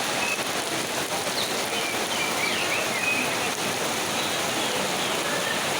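Steady rain falling, with a few faint bird chirps over it.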